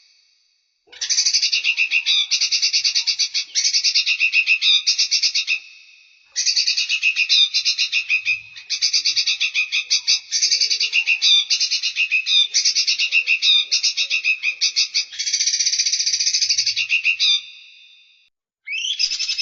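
Songbird song: fast, dry, high-pitched trills and chatter in phrases several seconds long, broken by short pauses. A new phrase starts with a quick rising note near the end.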